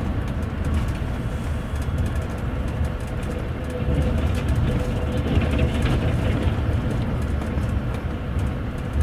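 Double-decker passenger railway carriage rolling along the track, heard from inside on the upper deck: a steady low rumble of the wheels on the rails with a faint steady tone, getting a little louder about four seconds in.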